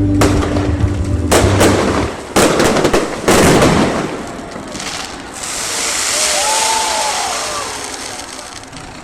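Aerial fireworks going off: several sharp bangs within the first three and a half seconds, then a softer crackling hiss that fades away.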